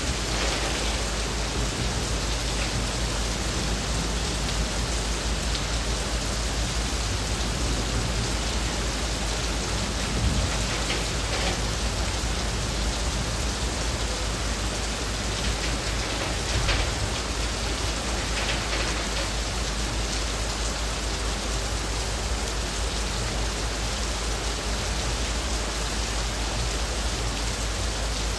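Heavy rain falling steadily on leaves, with a few louder drips or splashes now and then.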